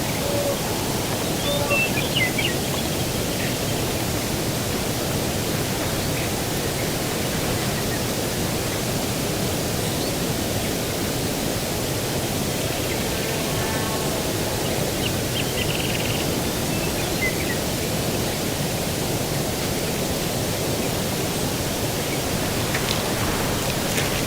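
Steady outdoor breeze noise, an even rushing hiss with no gusts or surges, with a few faint bird chirps about two seconds in and again past the middle.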